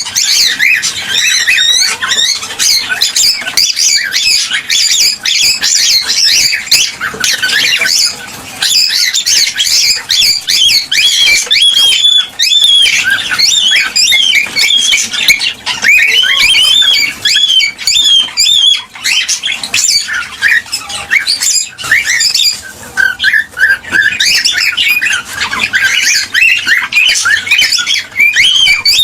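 Cockatiels chattering and whistling without a break: many quick, overlapping high chirps and squawks.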